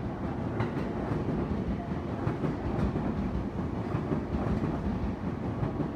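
E259 series Narita Express electric train running past close by, a steady rumble of wheels on rails with a few clacks over the rail joints.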